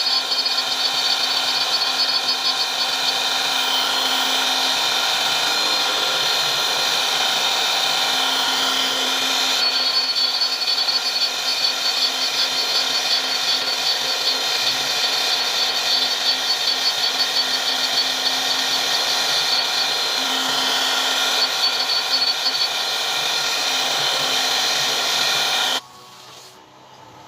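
CNC router spindle running at high speed as it cuts wood: a steady, high-pitched whine that stops abruptly near the end.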